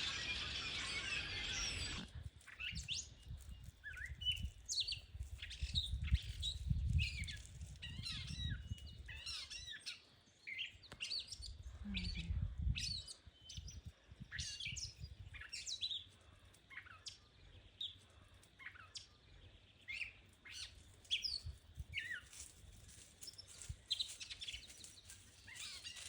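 Songbirds chirping and calling, many short high chirps several times a second, overlapping. An even hiss fills the first two seconds and cuts off suddenly, and low rumbling comes and goes under the birds.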